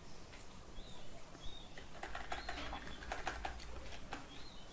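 Faint bird chirps in the background: a few short notes that rise and fall. Keyboard keys clicking in the middle as text is typed.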